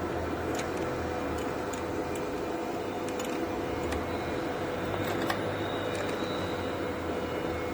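Steady machinery hum with a constant mid-pitched tone and a low rumble, with scattered light clicks and taps throughout.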